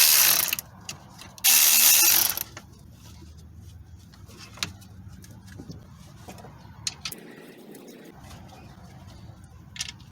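Power ratchet running in two bursts of about a second each, backing out the two 10 mm bolts on a bracket, followed by a few light metal clicks.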